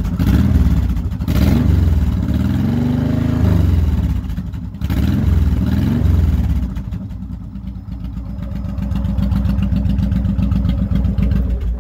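Honda VTX 1800's V-twin engine with aftermarket Bub exhaust pipes running a little loud. It is revved a few times in the first six seconds, then settles into a steady idle.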